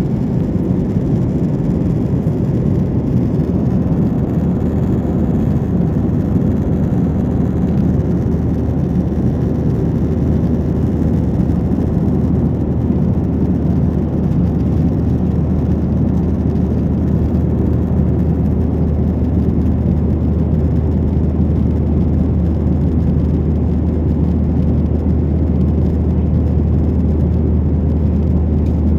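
Steady cabin noise inside a Boeing 737-900ER in flight: the constant low rumble and rush of its CFM56-7B engines and the airflow over the fuselage, heard from a window seat. It holds an even, deep drone without change.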